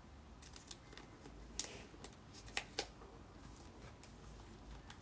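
Trading cards and plastic card holders being handled and fitted into a case: faint rustling with a few sharper clicks between about one and a half and three seconds in.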